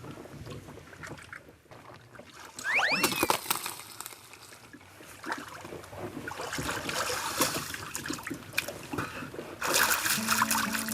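Water sloshing and splashing in irregular surges as a person moves in the cold fjord water after the sauna. A short high call that rises then falls comes about three seconds in.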